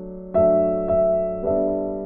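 Soft background piano music, with slow sustained notes and chords struck about every half second.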